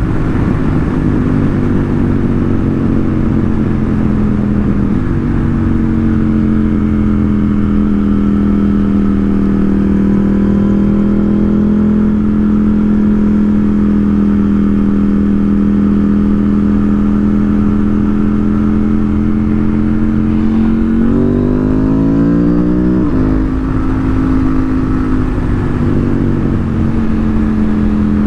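KTM 890 Duke R's parallel-twin engine running under way, holding a steady pitch for long stretches, then revving up sharply about three-quarters of the way in and dropping back at a gear change.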